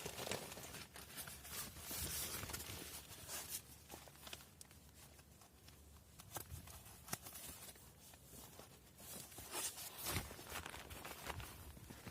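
Faint rustling and scattered light clicks and knocks, as of someone moving about on foot and handling gear.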